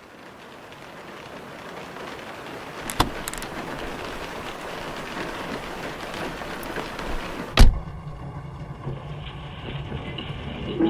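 Steady rain hiss fading in and growing louder, with a few faint ticks and one loud sharp crack about three quarters of the way through, after which the sound turns duller and lower.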